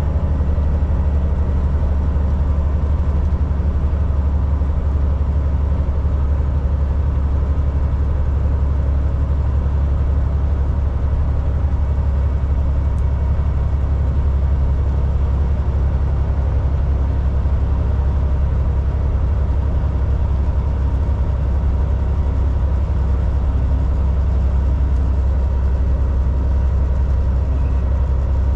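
Volvo VNL 760 semi-truck driving at a steady cruise: an even, deep diesel engine hum with road noise, unchanging throughout.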